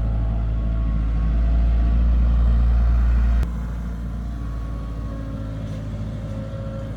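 Heavy construction-machine diesel engine running steadily with a low rumble. It gets a little louder about a second and a half in, then drops sharply in level with a click about halfway through and runs on more quietly.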